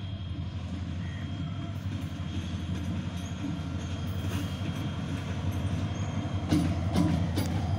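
Hyundai Rotem diesel-electric locomotive hauling a passenger train: a steady low engine drone that grows slowly louder as the train draws near. Sharp clicks of wheels over rail joints come near the end.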